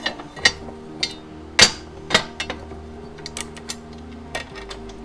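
Metal clanks and knocks of hand tools on a lawn mower's blade and deck: several sharp strikes in the first half, the loudest about a second and a half in, then lighter ticks.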